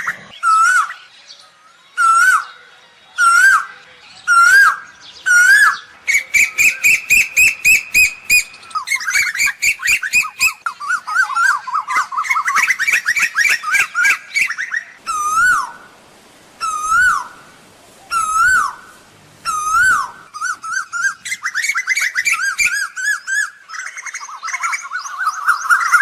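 Asian koel calling: loud, whistled notes with an upward hook, repeated about once a second. These alternate with fast runs of many notes in quick succession, as in a bird-lure recording.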